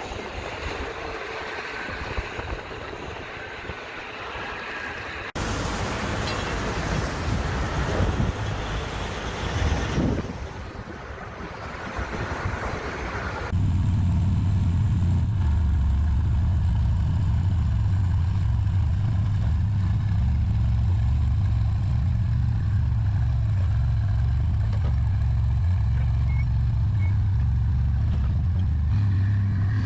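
A vehicle driving at road speed, in three edited stretches: a broad rushing road and wind noise at first, then from about halfway on a steady, loud, low drone of engine and tyres.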